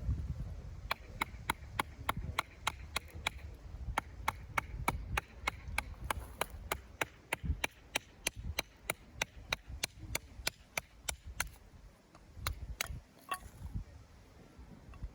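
Batoning firewood: a wooden baton taps steadily on the back of a knife blade, about three sharp knocks a second, driving the blade down through a piece of wood to split it. The knocks stop shortly before the end.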